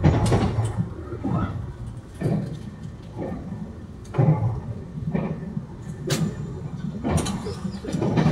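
Interior running noise of a TRA Puyuma Express tilting electric train (TEMU2000) under way: a low, steady rumble with irregular knocks and rattles about once a second.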